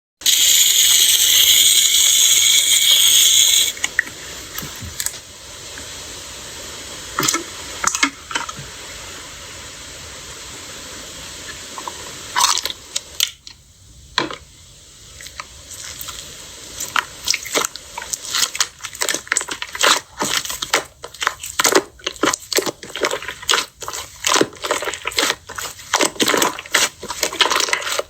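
Slime being squeezed and worked by hand: wet squishing broken by quick crackling pops and clicks, which grow dense over the second half. It opens with a few seconds of loud hiss.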